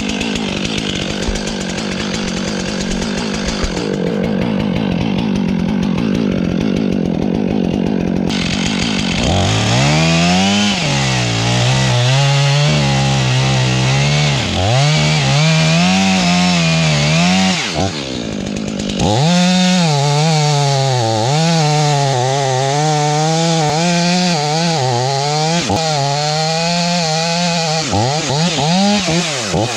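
Stihl MS 500i fuel-injected two-stroke chainsaw running at full throttle and cutting wood. From about nine seconds in, its engine note wavers up and down as it bogs and recovers under load, with a short drop near the middle.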